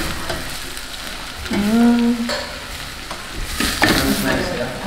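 Onions frying in butter with cumin and whole spices in a steel saucepan, sizzling steadily while a spoon stirs them.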